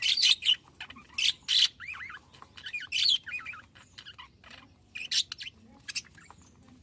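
Budgerigars chirping and warbling in quick bursts of short, sharp calls and twittering glides, thinning out toward the end.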